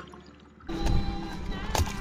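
Small drips and light knocks, then about two-thirds of a second in a sudden switch to loud boat and wind noise with music over it, a wavering pitched line running through near the end.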